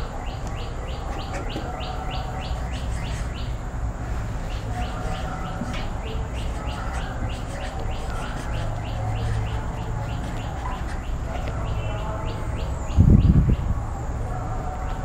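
A bird chirping over and over in quick runs, about four chirps a second, over a steady low hum. A single low thump about thirteen seconds in.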